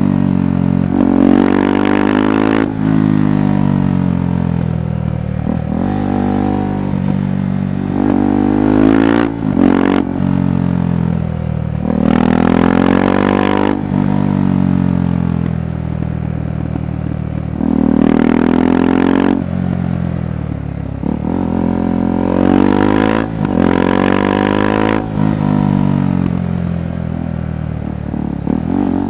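KTM 390 Adventure's single-cylinder engine and exhaust under way, repeatedly accelerating and rolling off, its pitch climbing and falling again every few seconds.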